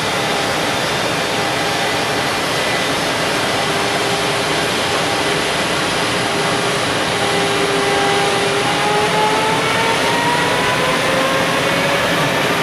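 Freight train pulling away: a steady rushing of container wagons rolling over the rails, with a whine from the EF510 electric locomotive's inverter and traction motors that starts rising in pitch about two-thirds of the way through as the train gathers speed.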